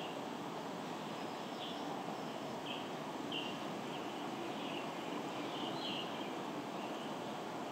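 Short, high bird chirps repeating irregularly, roughly once a second, over a steady background hum of street ambience.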